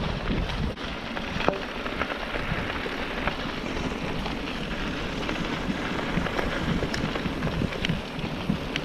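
Mountain bike rolling along a dirt trail: steady tyre and wind noise on the microphone, with a few sharp knocks from the bike over bumps.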